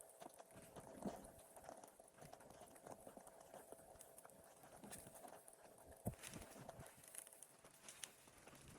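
Faint, irregular crunching in snow with scattered knocks, from a fallen tree branch being hauled by hand through snow; the louder knocks come about a second in and again about six seconds in.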